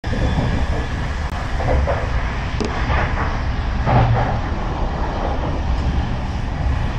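Passenger train running with a steady low rumble and a faint steady whine, with a few short knocks and clatters between about two and four seconds in.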